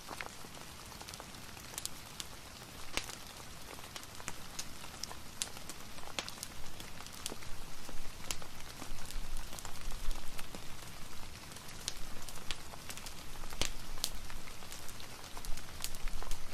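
Steady rain falling, mixed with a fireplace's crackle: an even hiss scattered with sharp ticks and pops, growing somewhat louder about halfway through.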